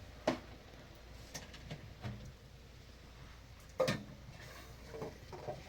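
A few sharp knocks and clicks, the loudest about a third of a second in and another near four seconds, with fainter ones between.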